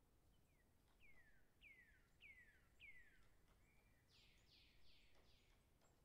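Faint bird calls: four descending whistled notes about half a second apart, then a short run of quicker, higher downward-sweeping calls near the end.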